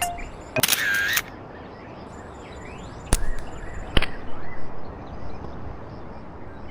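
Slingshot shooting: two sharp snapping clicks about a second apart, the rubber bands releasing and the pellet striking. A short harsh burst comes earlier, about half a second in.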